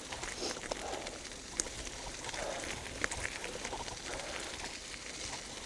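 Steady outdoor background noise with a couple of small clicks and faint bird calls.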